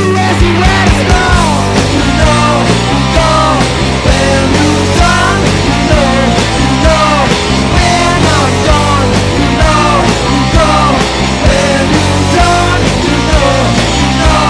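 A psychobilly rock band playing loud and fast with drums, bass and guitar. The full band comes in right at the start after a few separate hits, and the pitched lines bend and slide above the steady beat.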